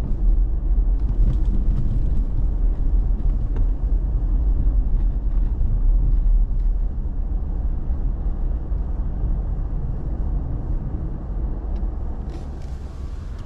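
Steady low road rumble of a pickup truck being driven, heard from inside the cab, easing off a little partway through.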